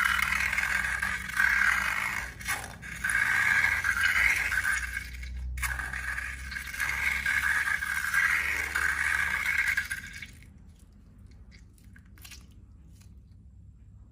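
Transparent balloons and slime being handled for slime making: a continuous rubbing, rasping noise with two brief breaks that stops about ten seconds in, followed by a few faint clicks.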